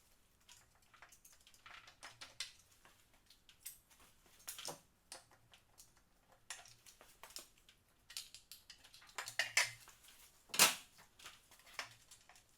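Irregular metallic clinks and clicks of hand tools and parts being handled on an engine being torn down, with one louder clank near the end.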